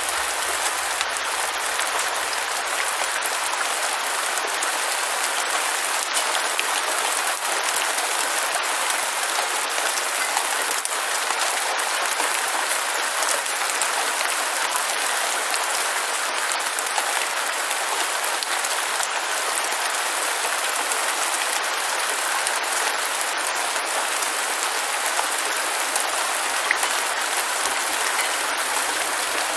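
Steady heavy rain, a dense unbroken patter of drops that holds an even level throughout.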